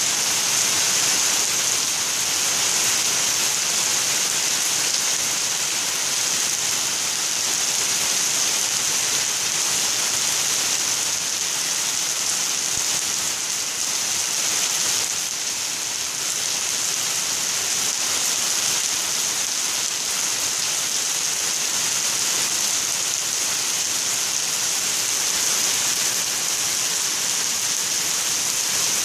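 Heavy rain falling steadily as a dense, even hiss, pouring off a roof edge onto pavement and leaves.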